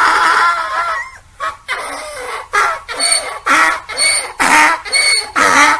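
Donkey braying: a drawn-out call that fades out about a second in, then a rhythmic run of short hee-haw calls, about two a second.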